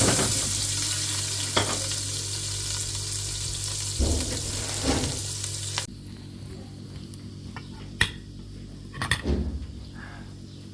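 Food frying in hot oil, a loud steady sizzle that stops abruptly about six seconds in. After that come a couple of sharp knocks, like utensils against a pan.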